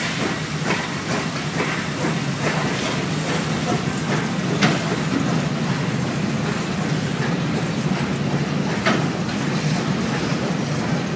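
Steam locomotive and its string of open freight wagons rolling slowly along the track: a steady rumble with irregular metallic clanks, the sharpest about four and a half seconds in and again near nine seconds.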